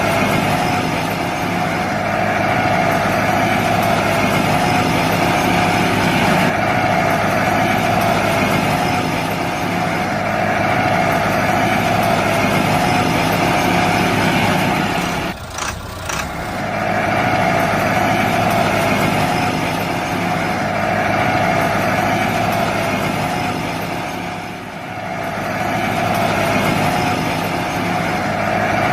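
A small motor running steadily with a constant whine, cutting out briefly about halfway through and dipping again later.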